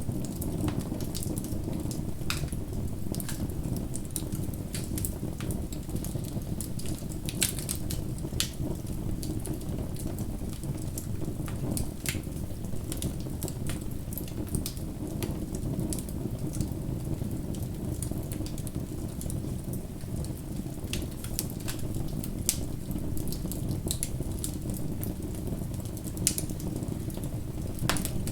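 Bonfire burning with a steady low roar of flames and irregular sharp crackles and pops from the burning wood.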